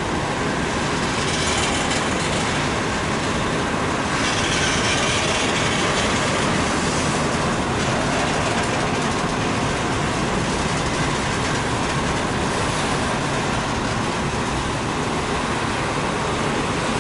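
BNSF double-stack intermodal train's container well cars rolling steadily past, wheels running on the rails.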